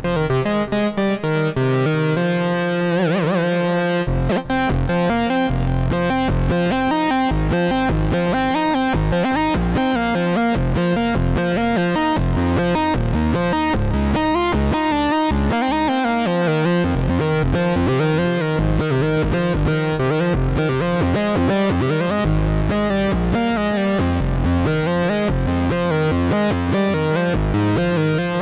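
Sequential Trigon 6 analog synthesizer playing a preset: a busy run of quick short notes over changing bass notes.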